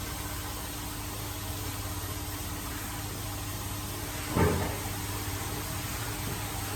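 Steady low hum of a running machine, with one brief louder sound about four and a half seconds in.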